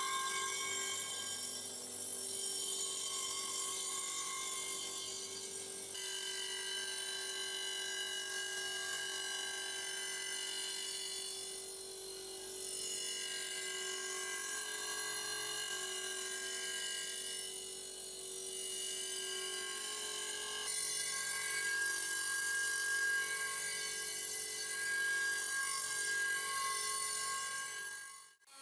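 A small power tool running steadily with a high whine of several fixed tones, typical of rust removal on old metal parts. The pitch mix changes abruptly about six seconds in and again about two-thirds of the way through.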